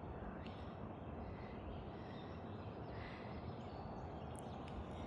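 Steady low outdoor background noise with a few faint, distant bird calls.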